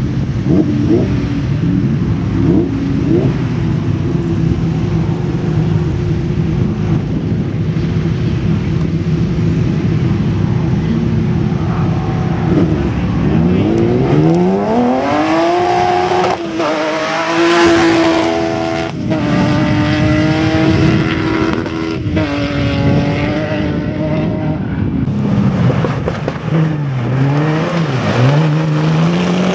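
Rally car engine running at a steady note, then revving hard from about halfway through, climbing through several gear changes, each a brief dip in pitch. Near the end the note falls away, then rises again.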